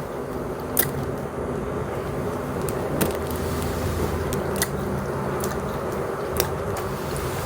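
Close-miked eating: a person chewing mushroom and cheese pizza, with a handful of sharp wet mouth clicks over a steady low background rumble.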